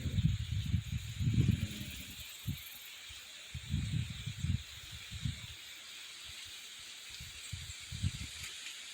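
Outdoor ambience: a steady high hiss, with irregular low gusts of wind rumbling on the microphone, heaviest in the first couple of seconds and again about four seconds in.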